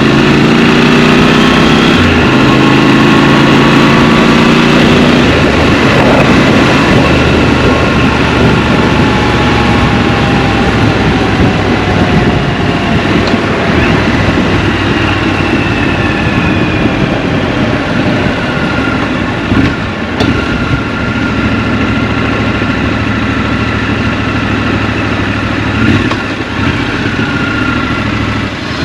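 Scrambler motorcycle engine heard from the rider's seat, its note rising as it accelerates for the first few seconds, then mostly masked by a steady rush of wind and road noise while riding, settling to a low even engine note near the end.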